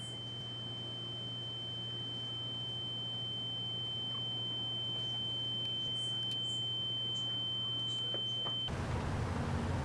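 A single steady high-pitched electronic tone rings over a low hum, then cuts off suddenly near the end, where a louder rushing noise takes over.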